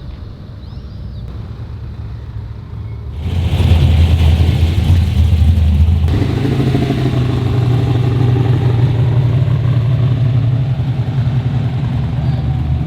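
A car engine running, quieter at first, then much louder from about three seconds in, with a deep, steady note that holds to the end.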